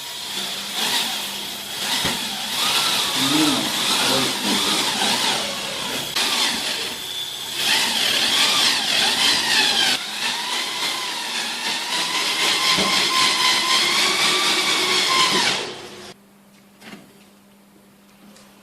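Handheld electric power tool running for a long stretch, its motor pitch wavering up and down under load, then stopping abruptly about sixteen seconds in.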